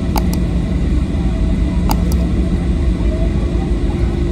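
Steady low rumble and hum of a Boeing 737-800 airliner heard from inside the passenger cabin, with two pairs of short clicks in the first couple of seconds.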